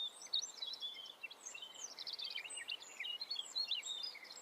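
Birds chirping: many quick, high overlapping chirps and short twitters, a countryside birdsong background.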